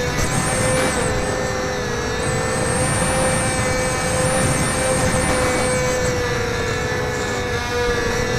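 Electric motor and propeller of a HobbyZone Firebird Delta Ray RC plane whining steadily in flight, its pitch dipping briefly about a second in and again near the end, with wind rushing over the microphone.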